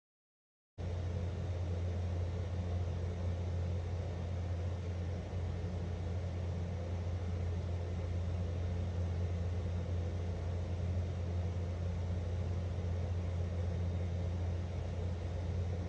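A steady low hum with a hiss over it, cutting in suddenly about a second in and running unchanged.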